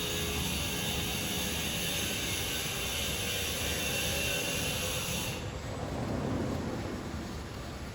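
Steady rushing noise of jet airliner engines. About five seconds in, the high hiss stops abruptly, leaving a lower rumble.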